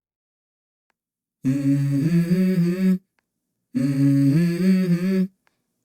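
Music soundtrack: a wordless hummed vocal phrase, heard twice in the same shape after about a second and a half of silence, like a looped vocal sample.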